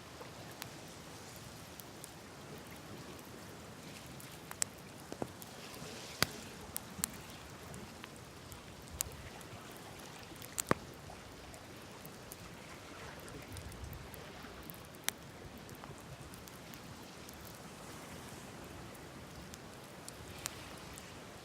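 Open wood campfire burning: a steady soft hiss with scattered sharp crackles and pops, the loudest pop about halfway through.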